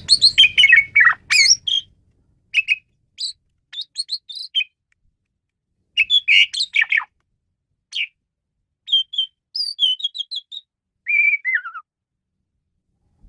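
Asian pied starling (jalak suren) singing: short phrases of varied chirps, squeaky whistles and harsh notes with silent pauses between them, and a falling whistle near the end.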